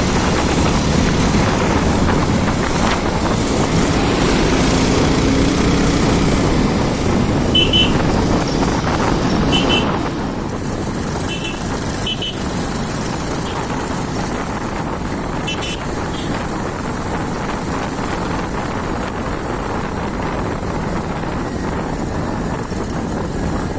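Steady engine, wind and road noise from a motorcycle ride, easing off a little about ten seconds in. Short horn beeps sound about five times in the middle stretch.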